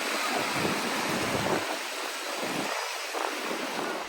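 Sea waves washing up and draining back on a sandy beach, with wind gusting on the microphone.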